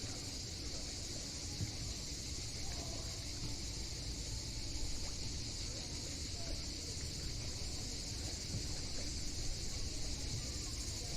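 Steady, unbroken chorus of cicadas, with a low rumble underneath.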